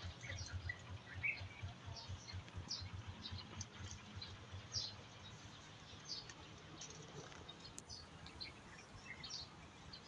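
Small birds chirping: many short, high chirps scattered throughout, with a low fluttering rumble under them in the first half.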